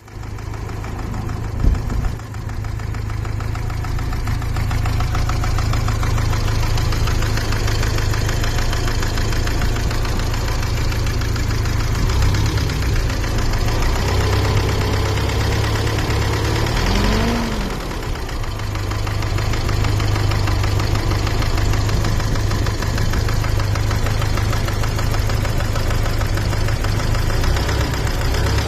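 BMW M40B18 1.8-litre inline-four engine idling with a fast, regular knock whose cause is unknown to the owner. A sharp loud knock comes near the start, and the revs briefly rise and fall about two-thirds of the way through.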